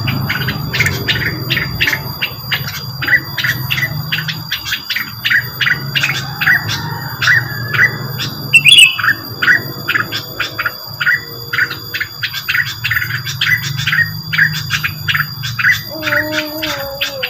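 Rengganis bird lure call: rapid repeated short, sharp chirps, about four to five a second, over a steady low hum, with one different rising chirp about halfway through.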